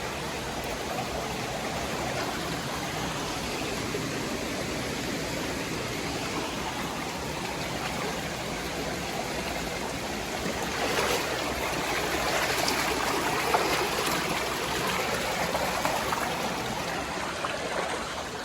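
Creek water rushing over rocks in a steady wash, growing louder about ten seconds in.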